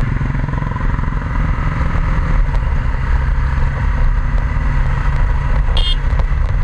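BMW G 310 motorcycle's single-cylinder engine running steadily under way, heard from the moving bike. A brief high-pitched chirp comes near the end.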